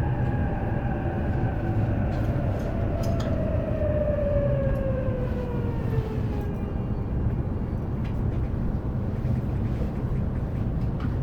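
The motor inverter whine of an E233 series electric train, falling steadily in pitch as the train brakes for a station and dying away about six and a half seconds in, over the rumble of the car. After that the stopped train's steady hum remains, with a few short clicks.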